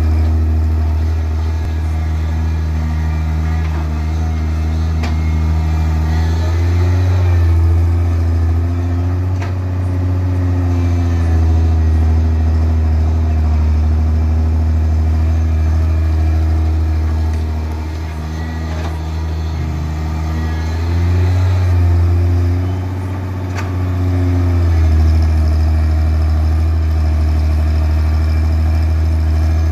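Heavy diesel engine running steadily at a deep, constant pitch, revving up twice and settling back, about a quarter of the way in and again about two-thirds through.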